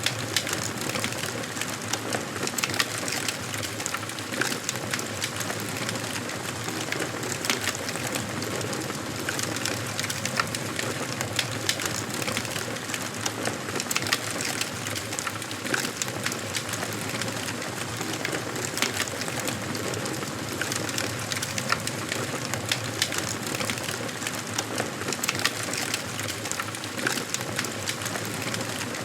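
Wood fire crackling in a fireplace: a steady hiss with frequent sharp pops and snaps of burning wood.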